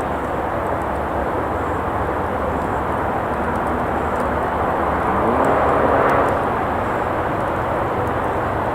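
Steady hum of traffic on a nearby road, with one vehicle passing and swelling louder about five to six seconds in. Faint crackles from a campfire sit over the top.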